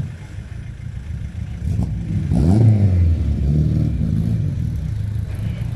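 Rally car engine running, with a quick rev up and back down about two and a half seconds in, then running steadily again.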